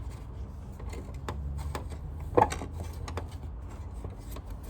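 Light clicks and taps of vacuum cleaner parts being handled, with one sharper click a little over two seconds in, over a steady low hum.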